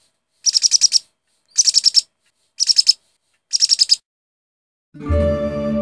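A bird chirping in four short bursts about a second apart, each a rapid run of high pulsed notes. Instrumental music comes in near the end.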